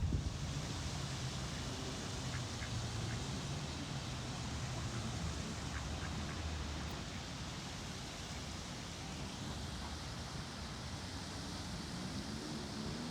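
Steady outdoor background noise with a faint low hum and a few faint high chirps.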